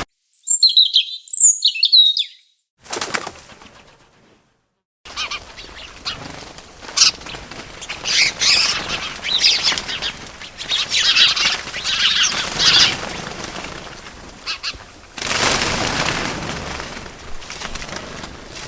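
Small birds chirping with wings flapping: a few sharp two-note chirps at the start, a brief flutter of wings, then after a short silence a run of bird calls over rustling and fluttering.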